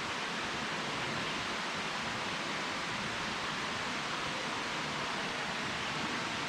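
Waterfall running: a steady, even rushing hiss of falling water.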